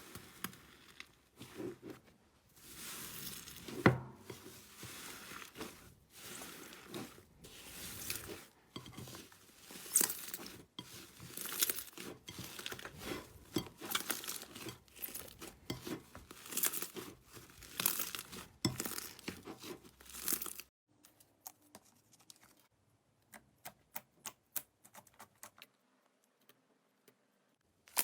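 Slime being stretched, pressed and pulled apart by hand, a run of sticky crackling and tearing sounds with sharp clicks. After about twenty seconds it falls to a few faint crackles and pops.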